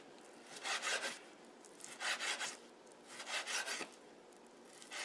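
Kitchen knife drawn through raw chicken meat to cut it off the bone: three separate scraping slicing strokes, each about half a second long and a little over a second apart.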